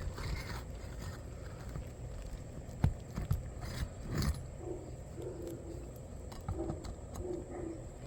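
A bird's low hooting calls, short notes repeated in the second half. Before them there is a sharp knock about three seconds in and a scattering of small clicks over a steady background noise.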